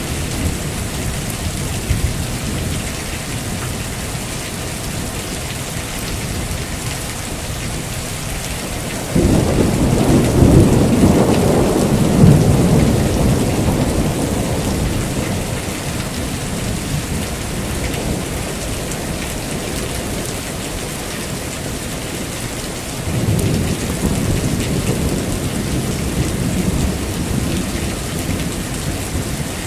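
Heavy rain falling steadily, with two rolls of thunder. A loud one breaks suddenly about a third of the way in and rumbles for several seconds before fading. A weaker one comes about three quarters of the way in.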